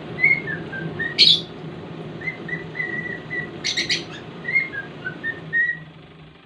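Cockatiel whistling a tune as a string of short pitched notes, some gliding down, broken by a sharp chirp about a second in and a quick burst of three chirps near the middle.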